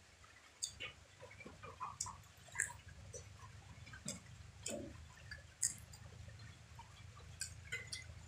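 Close-up eating sounds: scattered lip smacks, wet mouth clicks and chewing as pieces of cooked chicken are picked apart by hand and eaten, over a faint low hum.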